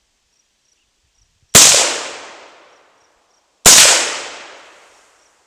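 Two AR-15 rifle shots about two seconds apart, each followed by a long echo rolling away. Faint crickets chirp under them.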